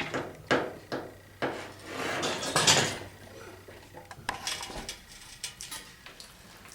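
Metal knocks and clanks as an engine on an engine stand is let down from a hanging chain: a few sharp knocks in the first second and a half, a longer scraping rattle about two to three seconds in, then scattered lighter clinks.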